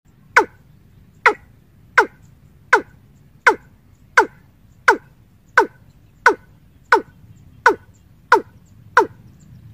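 A bird calling over and over: short, sharp notes that drop quickly in pitch, about thirteen of them evenly spaced, a little faster than one a second.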